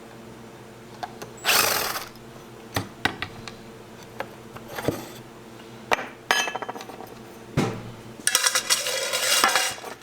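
Hand tools taking screws out of an antique table's leg gussets: scattered clicks and knocks of metal on wood, a short noisy burst about a second and a half in, and a run of rapid metallic clicking near the end.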